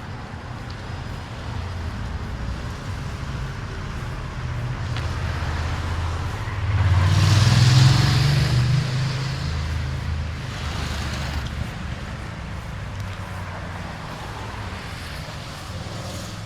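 Road traffic passing on a wet road: a steady low engine rumble, with one vehicle going close by about seven to nine seconds in, its tyre hiss swelling and fading, and fainter cars passing later.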